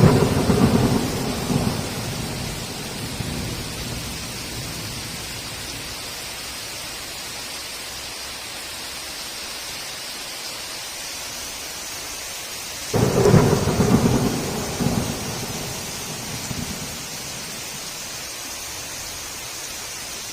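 Heavy rain falling steadily, with two loud thunderclaps: one right at the start and another about two-thirds of the way through, each rumbling away over a couple of seconds.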